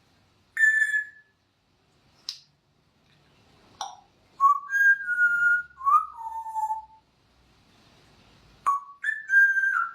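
Pet parrot whistling: a short high note, then a run of clear notes that step down in pitch, and a couple more whistles near the end, with sharp clicks in between.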